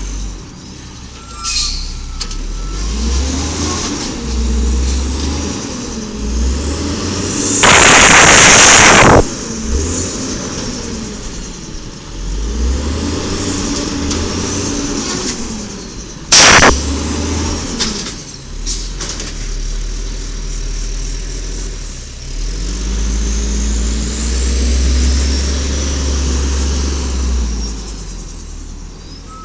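Automated side-loader garbage truck at work: its engine revs up and down again and again, with a loud air hiss lasting over a second about eight seconds in and a short, sharp air-brake burst about sixteen seconds in.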